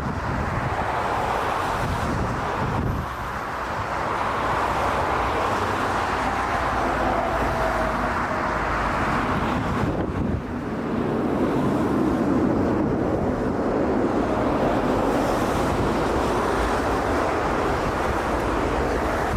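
Gusty wind buffeting the microphone over the steady rumble of a jet airliner landing. A faint falling whine comes partway through.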